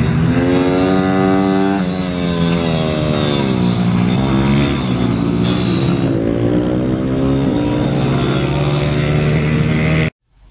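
Pitbike's single-cylinder engine running hard, its pitch climbing, dropping at gear changes and easing off, then climbing again. The sound cuts off suddenly near the end.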